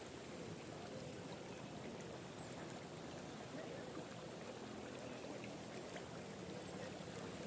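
Faint, steady rush of flowing floodwater, with a faint low hum underneath.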